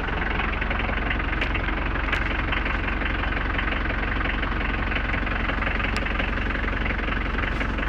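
Mitsubishi Pajero Mk1's 4D56 four-cylinder turbo-diesel idling steadily with an even diesel clatter after a cold start in sub-zero temperatures.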